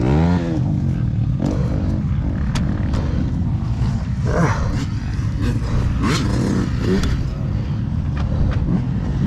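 Motocross dirt bike engine running on the track, its pitch swooping up and down about half a second in as it revs, then a rough, steady rumble.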